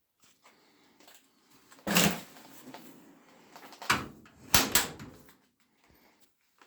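A few sharp knocks and clunks: one about two seconds in, another about four seconds in, and two more close together soon after, with faint rustling between them.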